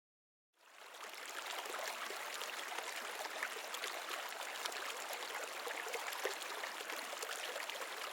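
Steady rush of flowing water, like a small stream, starting about half a second in, with faint scattered splashes and ticks.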